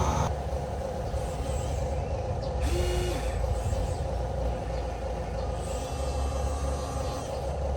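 Steady vehicle running sound, a low rumble under a constant hum, with a short held tone about three seconds in.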